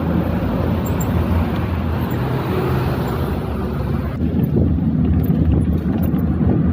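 Wind rumbling on the microphone while cycling along a road, with the steady noise of road traffic.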